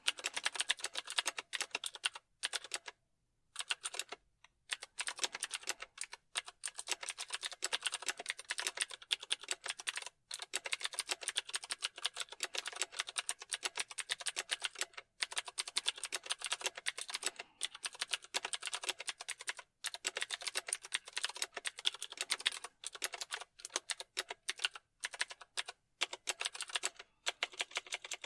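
Fast continuous typing on a computer keyboard, a rapid run of key clicks broken by a few short pauses.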